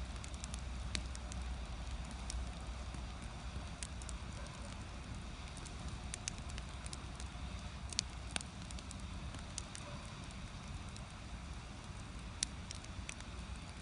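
Firewood burning in a traditional Korean agungi firebox, crackling with irregular sharp pops and snaps over a steady low rumble. The strongest pops come about eight seconds in and again near the end.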